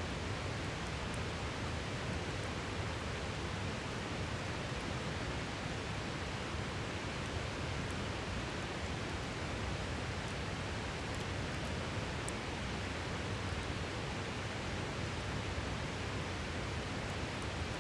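A river rushing steadily, with scattered faint crackles from a campfire.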